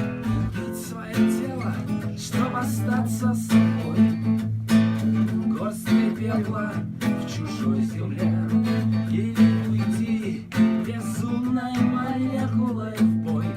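Acoustic guitar strummed in a steady chord pattern, with low notes ringing on steadily underneath.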